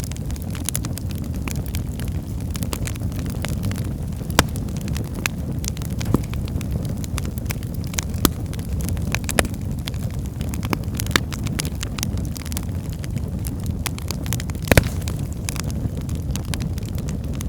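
Wood fire burning in a fireplace: a steady low rumble of flames with scattered sharp crackles and pops from the burning logs, the loudest pops about four and fifteen seconds in.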